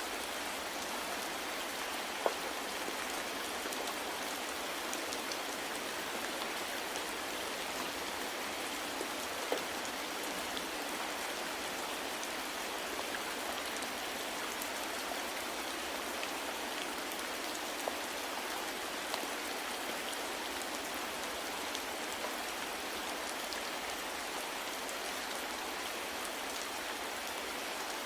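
Steady rain falling, an even hiss with a few scattered individual drops ticking through it.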